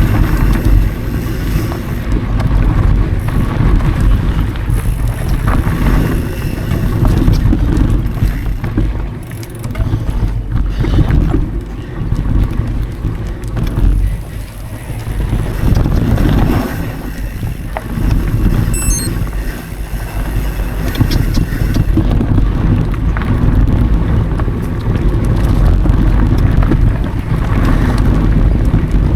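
Mountain bike riding heard from an action camera: heavy wind rush on the microphone with tyre noise and scattered knocks and rattles from the bike over the trail, the level dipping and rising several times.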